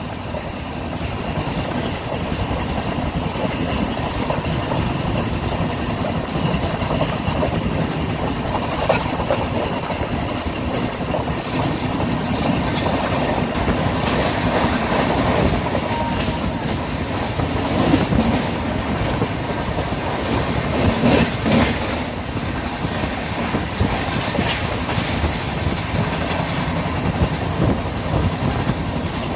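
Express passenger train running at speed, heard from on board: a steady rumble of the coach with scattered clicks and clatter from the wheels, busiest in the middle of the stretch.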